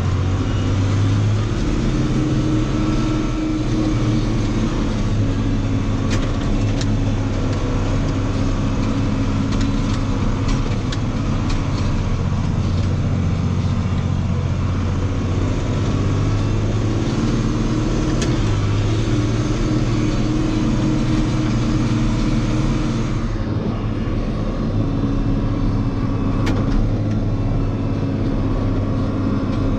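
A farm tractor's diesel engine runs steadily, its pitch stepping up and down slightly a few times, with a few light rattles. About two-thirds of the way through, the hiss on top drops away.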